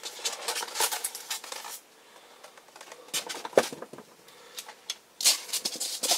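Hard plastic toy figure being handled and turned in the hands: rubbing and rustling for the first couple of seconds, a few light clicks and knocks about three and a half seconds in, then another short rustle.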